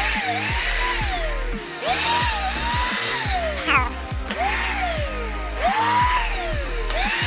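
A car vacuum cleaner's motor whining up and winding down again about five times, cutting in and out, on a vacuum that had to be jump started. Background music with a steady bass line plays throughout.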